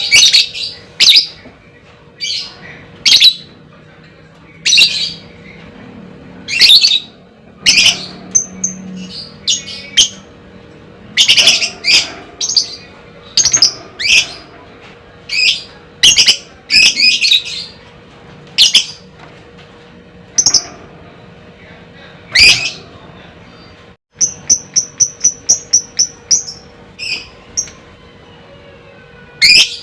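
Lovebird calling with sharp, harsh chirps and screeches in irregular bursts, then a quick run of about ten short high chirps some five seconds before the end, over a faint steady hum.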